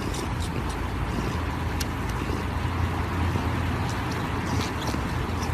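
Steady low rumble with a hiss over it, like vehicle engine and road noise, with scattered faint clicks.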